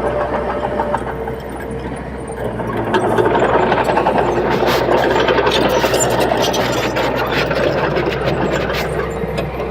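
Komatsu D21P bulldozer's diesel engine running, growing louder about three seconds in as it works. Light clicks and clanks sound through the middle of the stretch.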